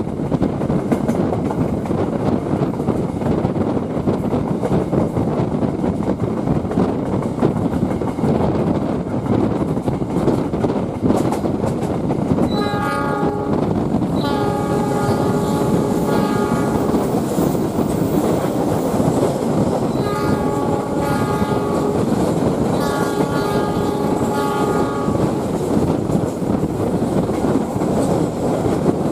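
Passenger train running with a steady rumble and clatter of wheels on rails, heard from aboard. From about twelve seconds in the locomotive horn sounds in four blasts, the second and last the longest.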